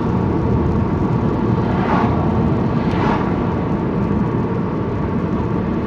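Steady road and engine noise inside a moving car's cabin, a continuous low rumble with tyre hiss.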